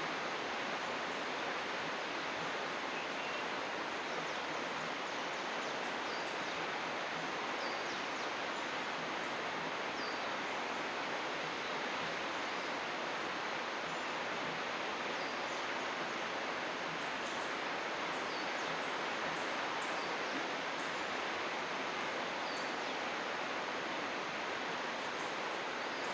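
Steady rushing of a mountain stream, with faint high bird chirps every few seconds.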